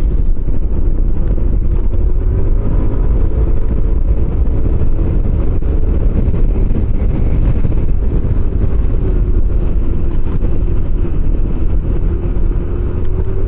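Motorcycle engine running at a steady road speed under a heavy low rumble, its note drifting only slightly up and down.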